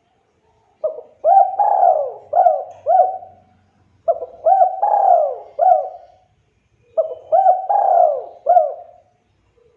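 Spotted dove (tekukur) cooing in three phrases, each a run of about five rising-and-falling coo notes, with short pauses between the phrases.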